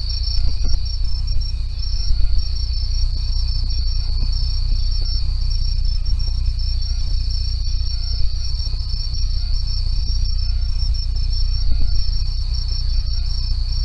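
Night insects, crickets and the like, calling in a steady, unbroken high-pitched chorus, over a constant low rumble.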